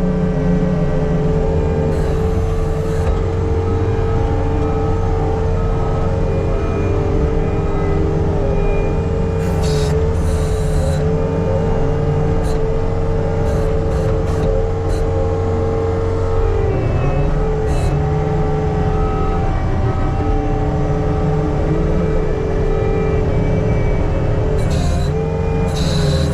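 Skid steer's diesel engine running steadily under load with a steady whine from the hydraulics, while it pushes dirt. A few brief sharp noises cut through about 2, 10, 18 and 25 seconds in.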